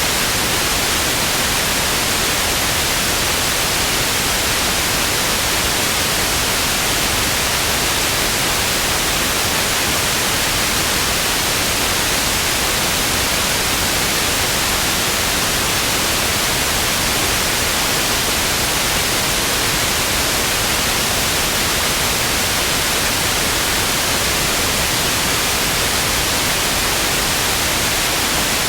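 Television static: a steady, even hiss with no tones or breaks, brightest in the upper range.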